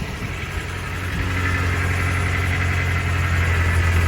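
1989 Toyota pickup engine idling steadily through its newly welded-in replacement muffler, a low even hum that grows louder about a second in.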